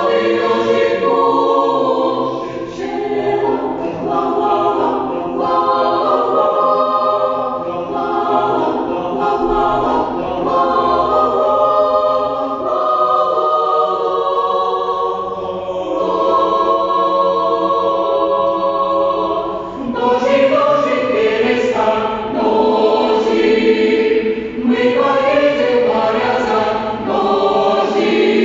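A choir of many voices singing a song together in sustained phrases, with a new phrase starting about two-thirds of the way through.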